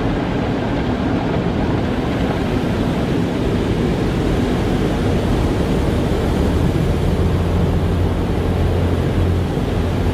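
Car wash running: a steady rushing noise of spraying water and machinery. A low hum grows stronger about halfway through and drops away near the end.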